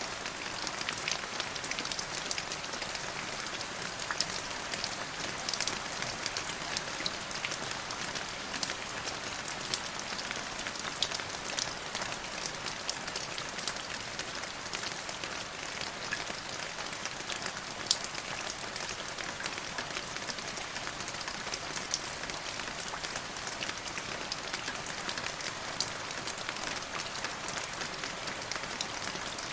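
Steady rain falling, an even hiss with many distinct drops pattering and ticking on a hard surface.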